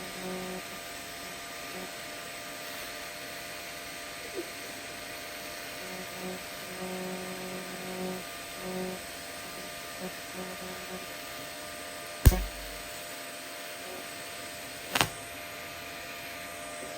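TIG welding machine tack-welding steel pipe: a steady electrical hum with several short stretches of arc buzz a second or two long, and two sharp clicks about 12 and 15 seconds in.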